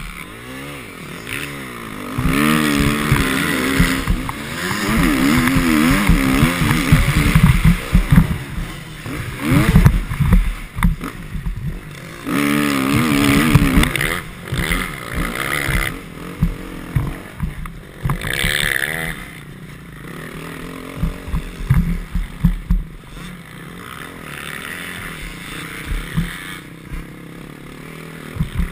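Motocross bike engine revving up and down in repeated surges as it is ridden hard round the track, with many low thuds.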